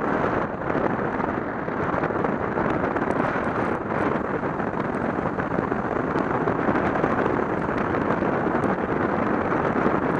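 Steady wind rush on the microphone of a camera riding on a moving motorcycle, a dense even roar with road and engine noise blended underneath.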